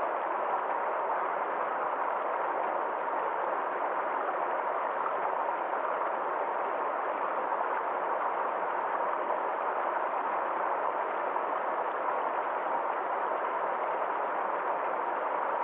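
A small forest stream flowing steadily, making an even wash of water noise that keeps the same level throughout.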